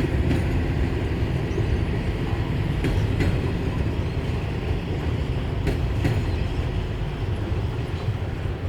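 Freight train wagons rolling past with a steady low rumble. The wheels click in pairs over a rail joint about every three seconds.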